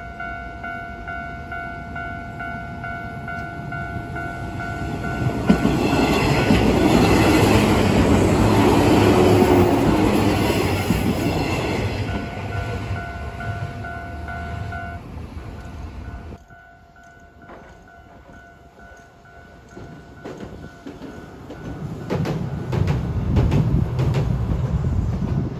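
Railway level-crossing alarm ringing in steady repeated tones as a four-car JR 113 series electric train runs past. The train's rumble rises to its loudest about six seconds in and fades, and the bell stops about fifteen seconds in. After a sudden cut, a three-section tram crosses a bridge with wheels clacking over the rail joints near the end.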